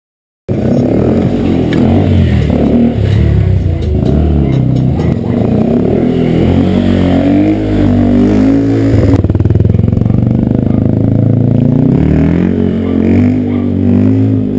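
Motorcycle engine running loudly, its pitch rising and falling, starting abruptly about half a second in.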